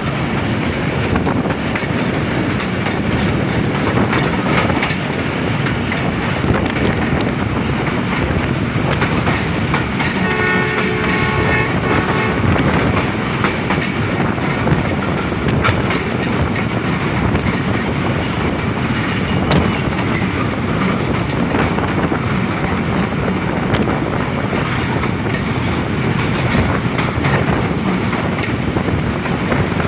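Diesel-hauled passenger train running along the line with a steady rumble and wheel clatter. About ten seconds in, the locomotive's horn sounds once for about two seconds.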